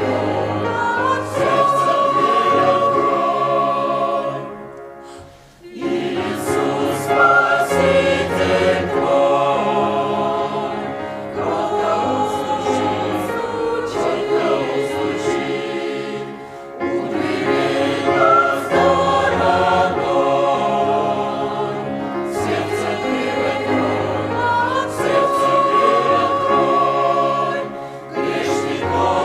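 Church choir singing a hymn in long held phrases, breaking briefly between phrases about five, sixteen and twenty-eight seconds in.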